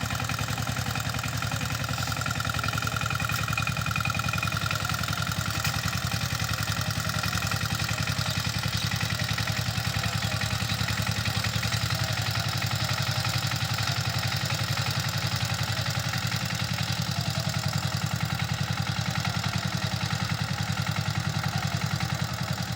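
Two-wheel power tiller's 16HP single-cylinder diesel engine running steadily with a rapid, even chugging beat, its pitch and loudness unchanging.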